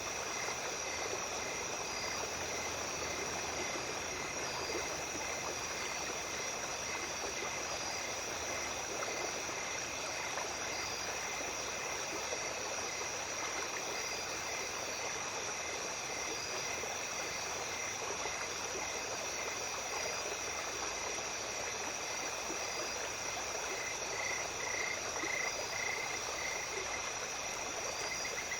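Small stream running steadily at night, with calling insects over it: a constant high trill and short chirps repeating evenly, getting louder near the end.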